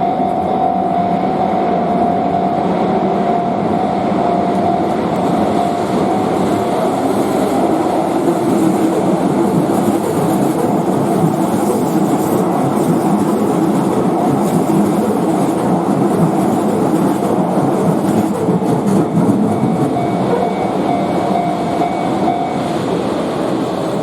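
Shin-Keisei Electric Railway train passing over a level crossing, a loud steady rumble and clatter of wheels on rail. The crossing's warning bell rings over it for the first several seconds and again near the end.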